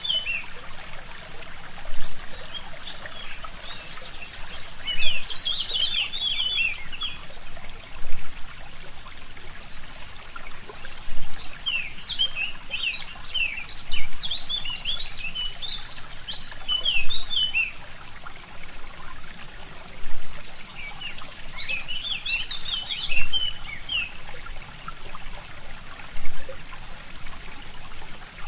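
A small stream trickling steadily while songbirds sing in short bursts of quick, high notes, several times with pauses between. The water sound swells briefly about every three seconds.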